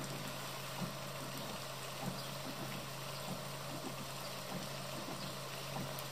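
Steady hiss of running or falling water, with scattered small drip-like ticks and a steady low hum underneath.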